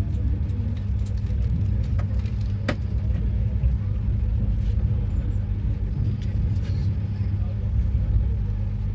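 Steady low rumble of a moving vehicle, with a faint click or two, the clearest about a third of the way in.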